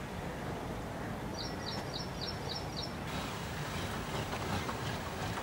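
Steady low outdoor noise, with a small bird chirping six times in quick succession, about four a second, starting about a second in.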